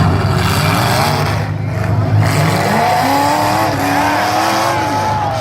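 Demolition derby car engines revving, their pitch rising and falling, over a steady low engine rumble.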